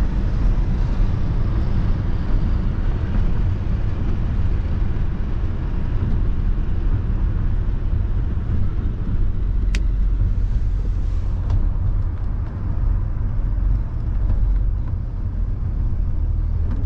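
Car driving at highway speed, heard from inside the cabin: a steady low road and engine rumble. One brief sharp click about ten seconds in.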